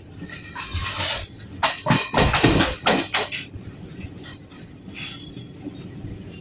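Moving passenger train rumbling, with a loud burst of rattling and knocking from about half a second to three seconds in.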